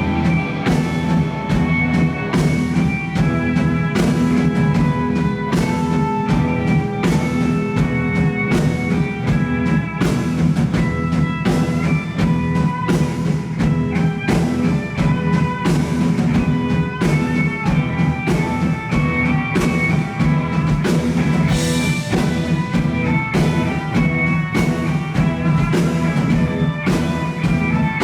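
Live indie rock band playing an instrumental passage: electric guitars holding ringing notes over a drum kit keeping a steady beat, with a cymbal crash about three quarters of the way through.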